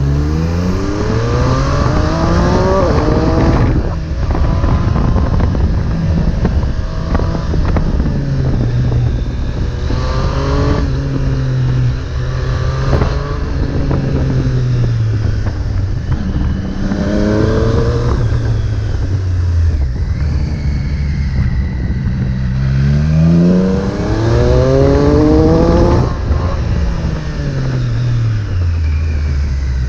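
Triumph Street Triple 765 S inline three-cylinder engine through an Arrow exhaust, accelerating hard several times. Its pitch climbs steeply and then drops back between surges, with the longest climb near the end.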